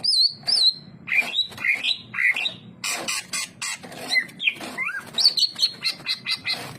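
Cucak ijo (green leafbird) singing a rapid, varied song: quick whistled notes sliding up and down, mixed with short chattering and clicking notes, with barely a pause.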